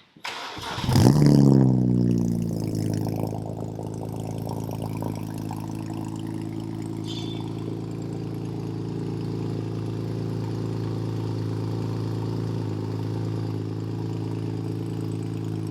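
BMW 335i's inline-six starting for the first time through a new straight-piped 3.5-inch exhaust with a single muffler: a brief crank, a flare of revs about a second in, then settling to a steady idle.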